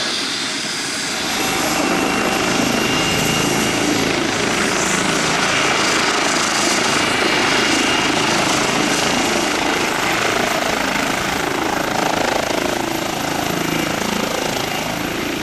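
Airbus H135 twin-turbine helicopter running close by: a steady rush of rotor and engine noise with a thin high turbine whine over it, growing a little louder about a second in.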